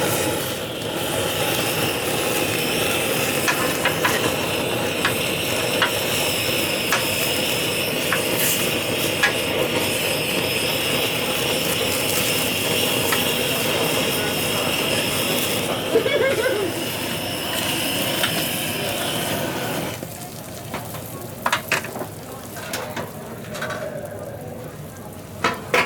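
Food sizzling on a hot grill: a steady hiss with scattered small pops that stops suddenly about twenty seconds in.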